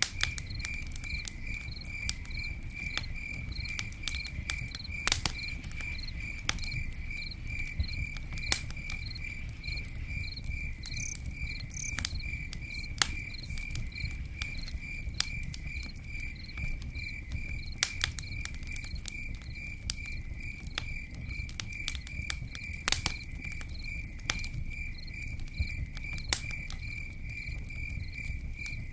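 Campfire crackling, with scattered sharp pops over a low steady rumble of burning wood. Crickets chirp steadily behind it, about three chirps a second.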